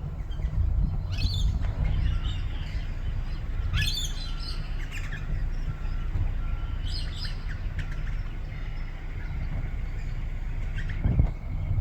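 Pale-headed rosellas calling: short clusters of high chirps about a second in, around four seconds in and around seven seconds in, over a steady low rumble. A short thump near the end.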